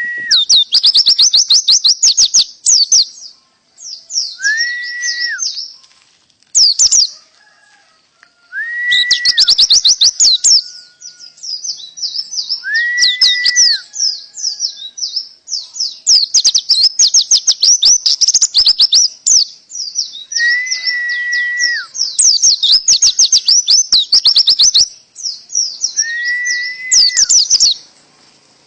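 Oriental white-eye (pleci) singing loud bursts of very rapid, high canary-style trills, broken by short pauses. A lower, clear whistled note rises, holds and falls at the start of several phrases.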